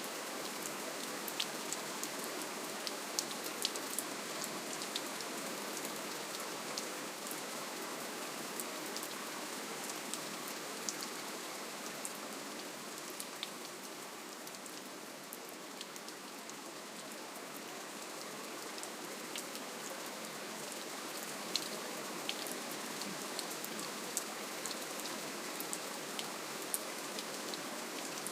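Steady rainfall, an even hiss with scattered individual drops ticking sharply on a surface; it eases slightly about halfway through, then returns.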